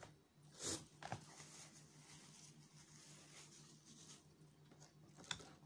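Quiet eating sounds of a person chewing pizza, with small handling clicks and rustles, a short louder rustle under a second in and a sharp click near the end, over a low steady hum.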